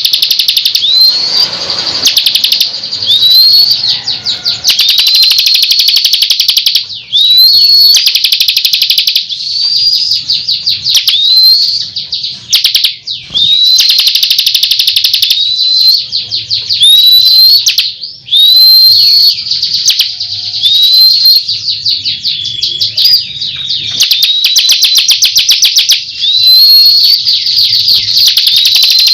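Bar-winged prinia (ciblek) singing loudly and without pause: fast, high trilling phrases, many opening with a rising note, repeated back to back every second or two.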